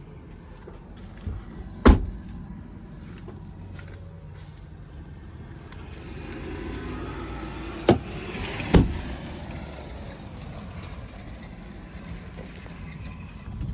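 Three sharp knocks or thumps over a low, steady rumble: the loudest about two seconds in, then two more close together around eight to nine seconds.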